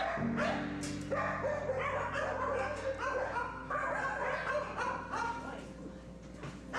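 Many dogs barking and yipping, one short bark after another, some of them high-pitched.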